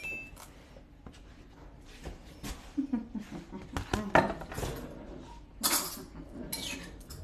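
Kitchen handling noises: scattered clicks and knocks of utensils against dishes, with two short scraping hisses a little past halfway.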